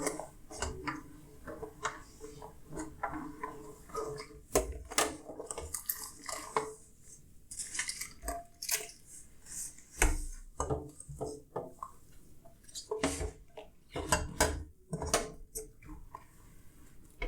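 Dishes and cutlery clinking and knocking against each other as they are handled and washed, in irregular clinks throughout, the loudest about four and a half and ten seconds in.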